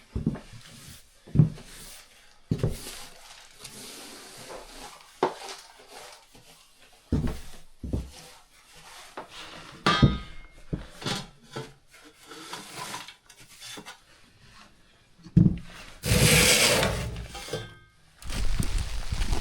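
Scattered wooden knocks, scrapes and clatters of things being handled and moved about, with a louder rushing noise about a second and a half long near the end.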